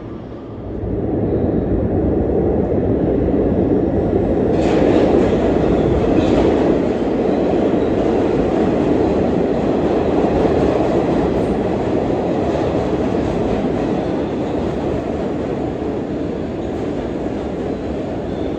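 A New York City Subway A train running through the underground station: a loud, steady rumble of wheels on rail that swells about a second in and slowly eases toward the end, with a few sharp clacks a quarter of the way through.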